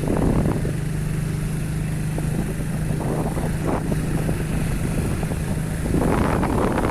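Engine of a moving vehicle running at a steady speed with a low hum. Near the end the hum gives way to louder rough wind and road noise.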